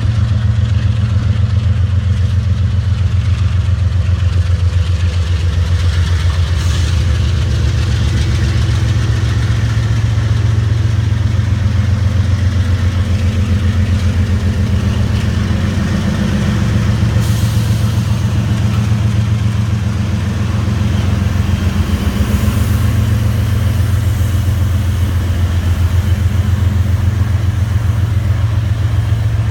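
Diesel locomotive engine (GE ES44DC, GEVO-12 V12 diesel) running steadily at low revs with a fast, even low throb.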